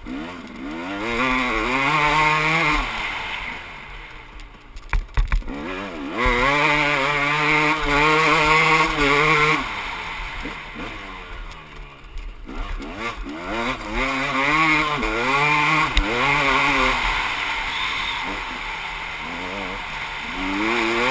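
Motocross bike engine revving hard in repeated surges. The pitch climbs as it accelerates, holds, then falls away as the rider backs off, about four times. A few sharp knocks come about five seconds in.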